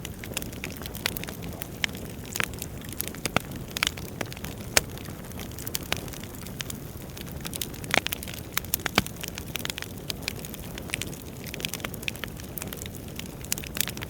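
Wood fire burning in a fireplace: a steady low rush of flames under frequent, irregular crackles and sharp pops, with the loudest pops about five and eight seconds in.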